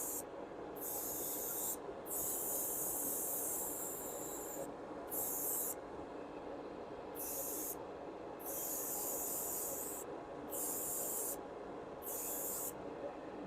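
Airbrush spraying paint in short on-off bursts: about seven high hisses, each lasting from under a second to a couple of seconds, as the trigger is pressed and released. A steady low hum runs beneath them.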